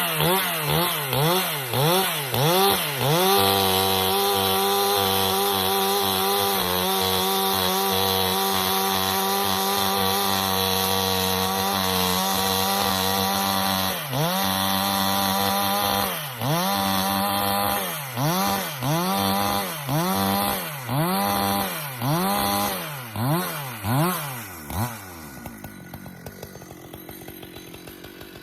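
Husqvarna chainsaw noodling pecan rounds: revved in quick pulses, then held at a steady high speed for about ten seconds, then revved in pulses about once a second again. About 25 seconds in it drops to a quiet idle.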